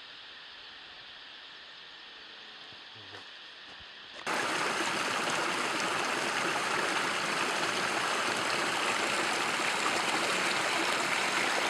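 Rushing water of a stream, a steady even hiss that suddenly becomes much louder about four seconds in.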